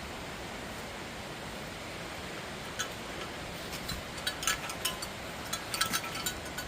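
Bear bells jingling in small irregular clinks while walking, starting about three seconds in, over a steady rushing hiss of rain.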